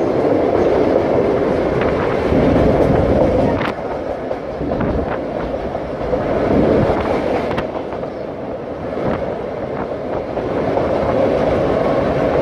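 Metre-gauge electric train of the Ligne de Cerdagne running at speed, heard from its open carriage: a steady rolling rumble of wheels on rails with a few faint clicks, mixed with wind on the phone's microphone.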